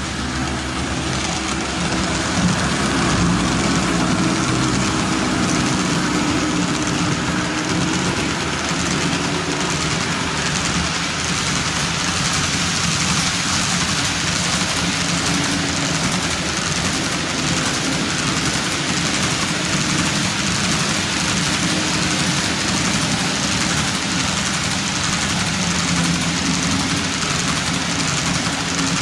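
HO-scale model train running on the layout: the wheels of a long string of covered hoppers rolling over the track with the locomotives' motors, a steady rolling noise with a low hum underneath.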